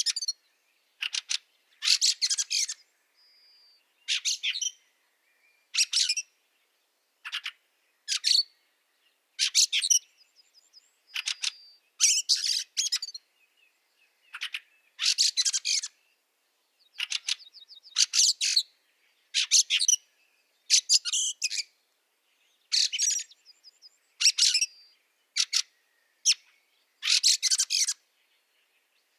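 Fieldfares calling: repeated harsh, rattling chatter in short bursts that come in quick groups about every second, with a few faint thin whistles in the gaps.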